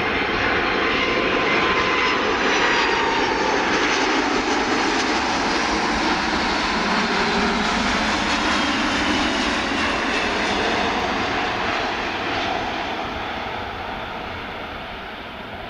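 Jet airliner passing close by: a steady loud engine roar with a faint whine that falls in pitch, fading away over the last few seconds.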